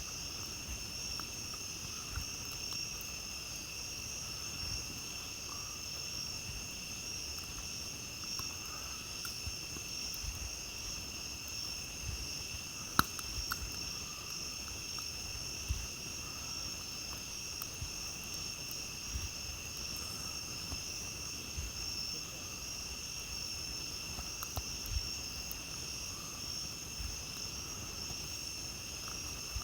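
A steady chorus of night insects shrilling, with a campfire crackling and popping underneath in scattered sharp clicks. One loud pop comes about thirteen seconds in.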